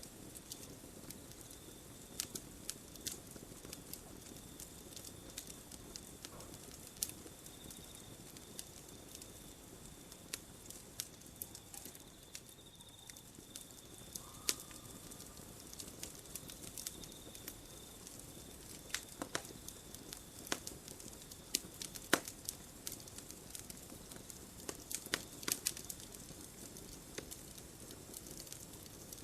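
Wood campfire crackling: irregular sharp pops and snaps of various strengths over a low steady hiss of the burning fire, with a steady high trill of night insects underneath.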